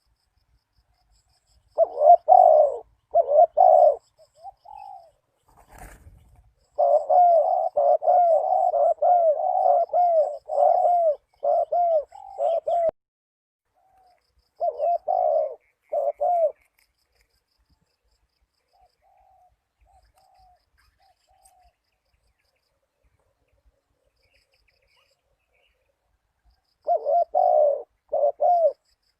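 Spotted dove cooing in repeated phrases: a group of coos about two seconds in, a long run of coos from about seven to thirteen seconds, a shorter burst around fifteen seconds and another near the end. A single sharp click comes around six seconds in.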